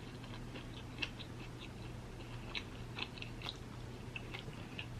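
A person chewing a mouthful of seafood close to the microphone: faint, irregular wet clicks and smacks.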